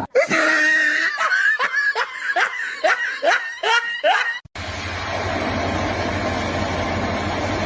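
A person laughing in a quick run of short bursts, each dropping in pitch. About halfway through it cuts off abruptly and gives way to a steady noisy hum with a low drone.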